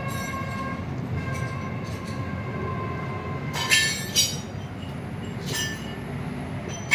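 Metal engine parts and tools clinking sharply four times, with a short ring after each, as a connecting-rod cap and its bolts are fitted. Underneath is a steady low rumble and, for the first few seconds, a faint high whine.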